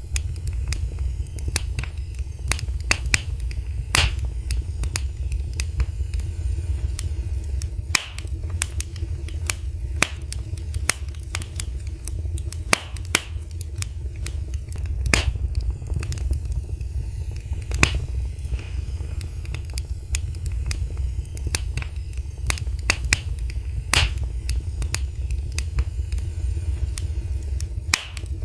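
Wood fire crackling in a fireplace: irregular sharp pops and snaps, a few of them louder, over a steady low rumble of the flames.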